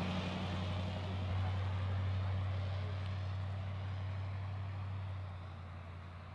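Motor vehicle engine running with a steady low hum under a haze of noise, the sound fading gradually and dropping off after about five seconds.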